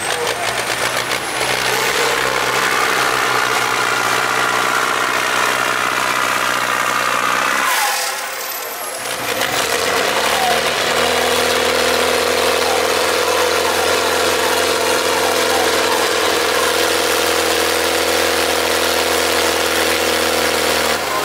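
Tractor diesel engine running at steady high revs, cutting away briefly about eight seconds in, then coming back up to a steady pitch.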